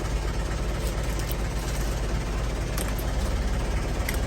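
Mitsubishi Canter truck's diesel engine idling steadily.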